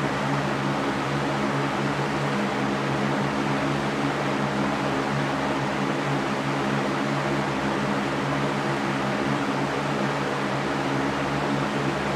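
Electric fan running steadily: an even whooshing noise with a constant low motor hum.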